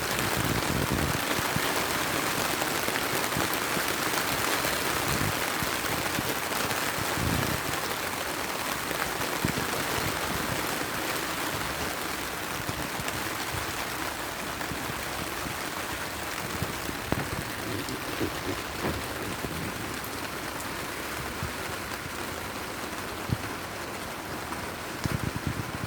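Heavy rain falling steadily on surfaces, a dense, even hiss, with a few sharp ticks now and then in the second half.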